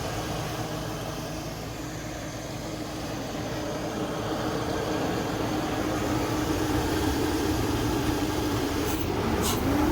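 A vehicle's engine running steadily, its tone slowly rising and growing a little louder, with a few sharp clicks near the end.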